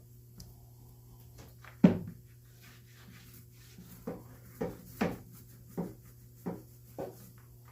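Hollow knocks and bumps from paint-rolling work inside a boat hull. One loud knock comes about two seconds in, then a run of six lighter ones about every half second, over a steady low hum.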